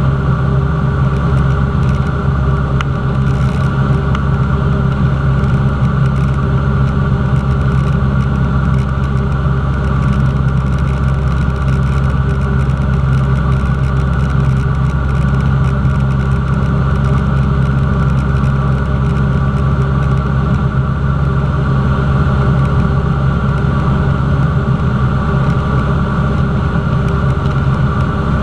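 Cessna 172's piston engine and propeller running steadily at a constant power setting.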